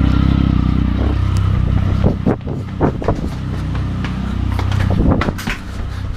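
Motorcycle engine idling after starting, running loud and steady, then dropping in level about a second in. Several sharp knocks or thumps follow over the engine sound.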